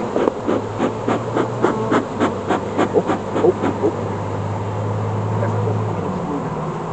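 Honeybees buzzing around an open hive, with a steady low hum that shifts a little higher near the end. Over the first four seconds there is a quick series of sharp scraping or clicking strokes, about four a second.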